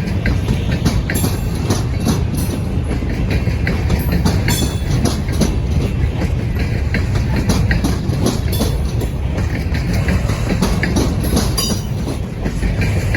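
A freight train of a ballast train rolls past, its steel wheels rumbling and clattering steadily over the rails. Now and then a short, high wheel squeal sounds.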